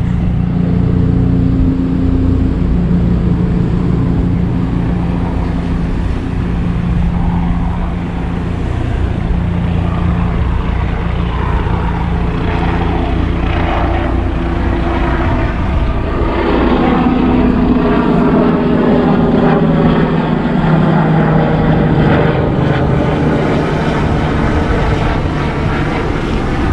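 Helicopter flying by with a steady, droning engine-and-rotor hum. About two-thirds of the way through, the pitch of the drone shifts as it passes, over a steady rush of outdoor noise.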